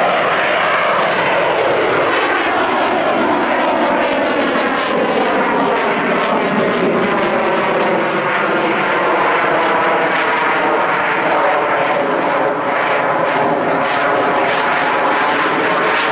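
Royal Canadian Air Force CF-18 Hornet's twin jet engines running loud and steady during a display pass, the tone sweeping slowly as the jet moves across.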